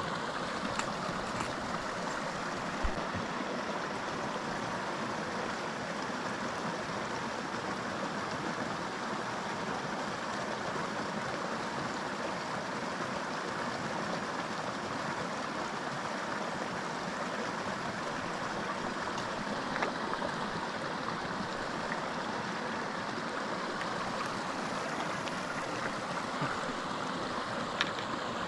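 Steady rushing of a small mountain creek flowing over rocks, with a few faint clicks.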